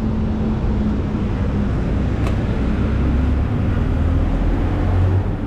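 Kawasaki ZX-10R's inline-four engine idling with a low, even rumble.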